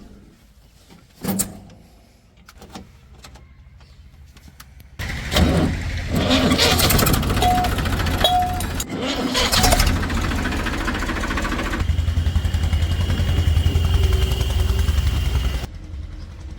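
A few scattered clicks and knocks, then a vehicle engine starts about five seconds in and runs loudly with a steady low rumble. The sound drops off sharply near the end.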